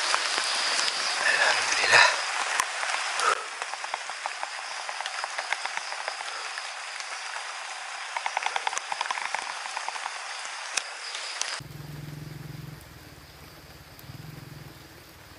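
Steady rain falling on forest leaves, a dense even hiss with scattered drips. Near the end it cuts suddenly to a much quieter low hum.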